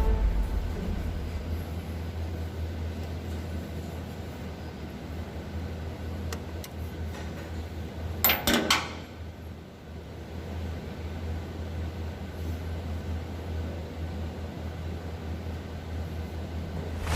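Ford Expedition engine running at idle, a steady low hum, with a brief cluster of sharp clicks about halfway through.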